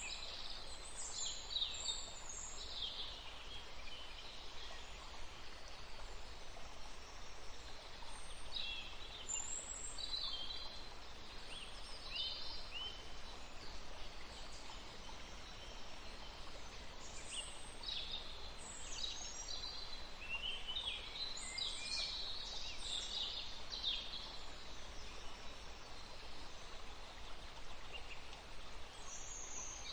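Wild birds chirping and trilling in several clusters of short high calls with brief lulls between, over a steady faint background hiss.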